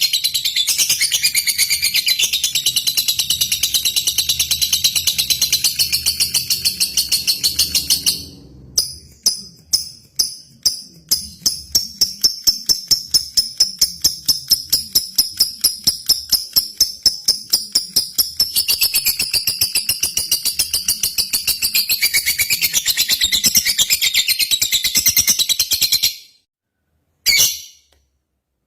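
Lovebird singing a long, fast, high chattering song. About eight seconds in it breaks into separate sharp chirps, about three a second, then returns to the rapid chatter before stopping abruptly a couple of seconds before the end, with only a few short calls after.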